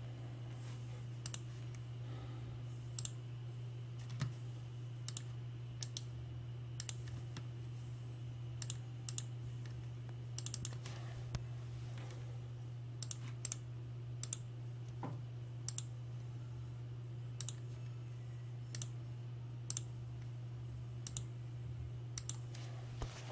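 Scattered, irregular clicks of a computer mouse and keyboard, about one or two a second, over a steady low hum.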